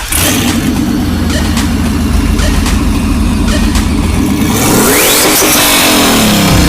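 Turbocharged LS1 V8 (76 mm turbo) in a drift car, heard from the cabin, running hard under acceleration. It comes in loud all at once. Past the middle, a loud hiss joins and the engine pitch sweeps up and down.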